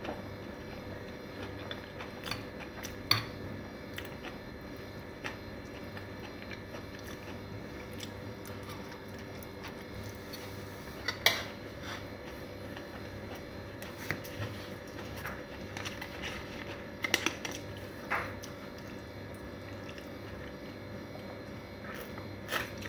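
A person chewing mouthfuls of noodles close to the microphone, with a few short sharp clicks and knocks scattered through, over a steady low hum.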